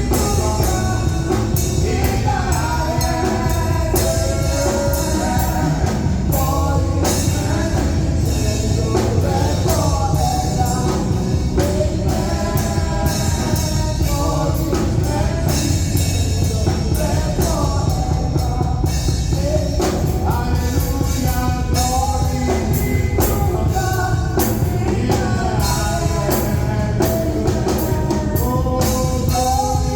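Live worship music: singing over a band with drum kit, steady beat throughout.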